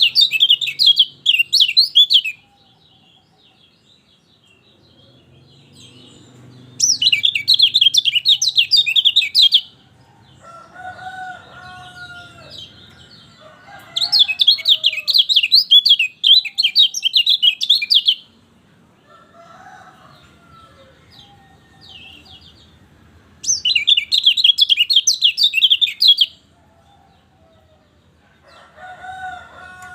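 Lemon-bellied white-eye (kecial kuning) singing: four bursts of rapid, high twittering song, each two to four seconds long, with quieter, lower whistled calls in the gaps between them.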